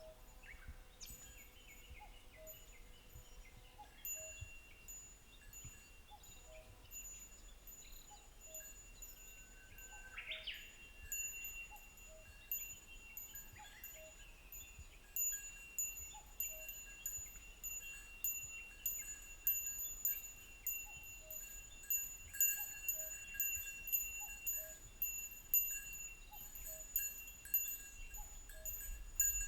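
A small metal bell ringing repeatedly in an even rhythm, growing louder over the second half. A bird gives a short rising call about ten seconds in.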